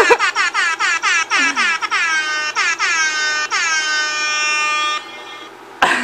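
Ham Horn novelty horn app played through a phone's speaker: rapid repeated honks, about four a second, each dropping slightly in pitch as it starts, then one long held honk that cuts off about five seconds in. A brief loud sound follows near the end.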